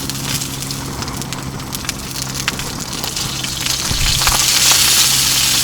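Salmon frying in a pan on a propane camp stove, crackling and popping over a steady low hum. About four seconds in, the sizzle jumps louder and hissier as lemon juice hits the hot pan and spatters.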